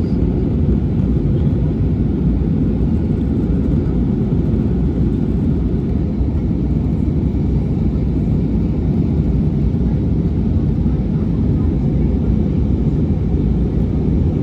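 Steady low roar of an airliner's jet engines and rushing air heard inside the passenger cabin in flight, even and unchanging throughout.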